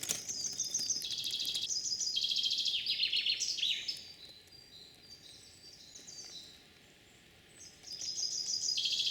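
Songbird singing a song of rapid, high-pitched trilled phrases for the first few seconds, pausing, then starting again near the end.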